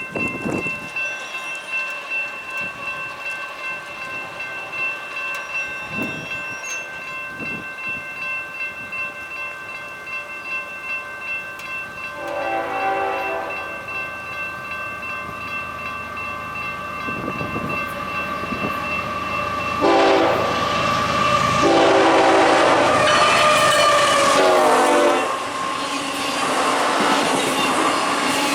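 Freight locomotive air horn sounding a long blast, then a run of blasts near the end as the train comes through, over a steady pulsing ring, about two strokes a second, typical of a grade-crossing bell. The passing train's wheels and rail noise swell in the last few seconds.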